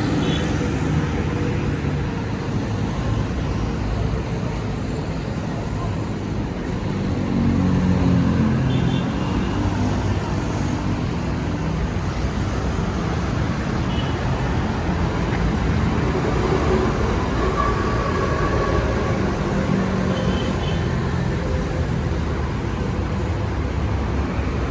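Road traffic noise: a steady rumble of motor vehicles, swelling louder about a third of the way in.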